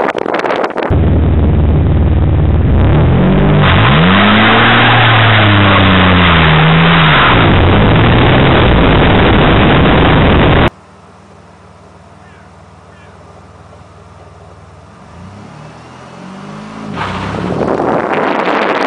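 Pontiac Firebird engine revving up and down while driving, loud and rough with heavy rushing noise. About ten seconds in it cuts abruptly to a much quieter recording of the engine running, which grows louder near the end.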